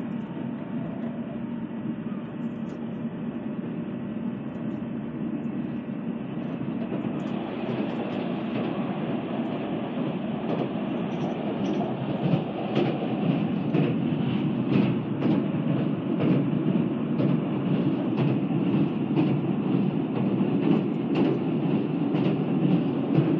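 Tobu Spacia limited express train running at speed, heard from inside the car: a steady rolling rumble that grows louder about a third of the way in. From about halfway it turns into a rapid clatter of wheel clicks, about two a second, as the train crosses a steel truss bridge.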